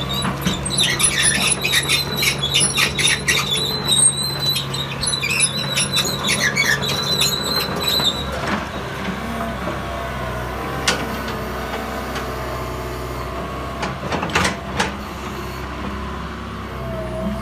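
John Deere 160G LC excavator's diesel engine running steadily, with rapid metallic squeaking and squealing from the machine working over the first eight seconds or so, then a few sharp knocks later on.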